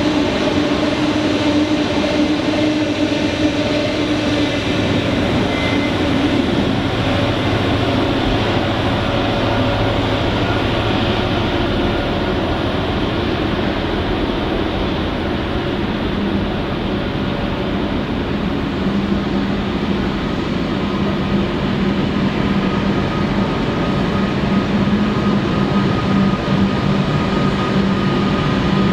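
A train running on the line: a continuous loud rail noise with no break. A steady humming tone comes in about halfway and grows stronger toward the end.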